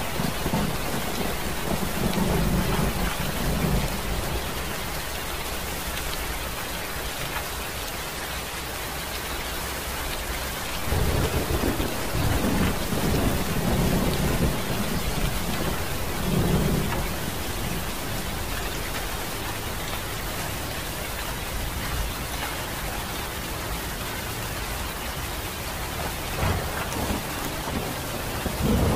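Steady rain with low rolling rumbles of thunder, one at the start and a longer one from about 11 seconds in that swells and fades over several seconds.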